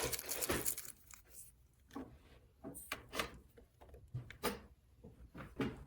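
Scattered light clicks, taps and rubbing of small hard objects being handled, spaced about a second apart.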